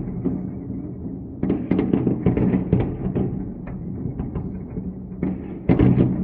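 A dense, continuous barrage of explosions: rapid booms and crackles that swell again about a second and a half in and once more near the end, over a steady low hum.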